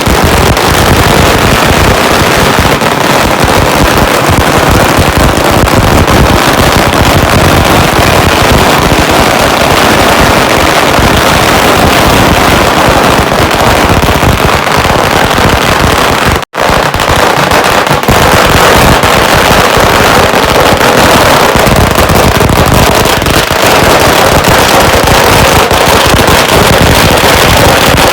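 A long string of firecrackers going off in a loud, unbroken rattle of rapid bangs. It cuts out for a split second about halfway through, then carries on.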